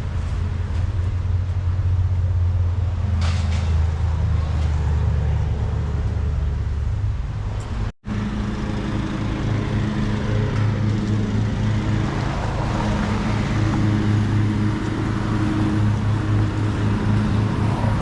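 Car engines idling. About eight seconds in, the sound cuts out for an instant and a second engine takes over, with a pulsing idle.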